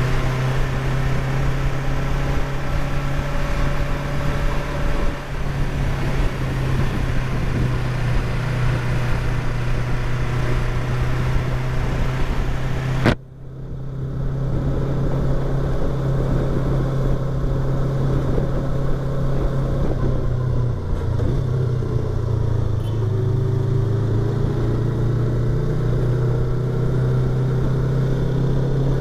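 Yamaha YZF-R25's parallel-twin engine and exhaust running under way, heard from inside the rider's helmet with wind rush. About halfway through the sound cuts off abruptly and the wind rush drops. Near the end the engine pitch rises as it accelerates.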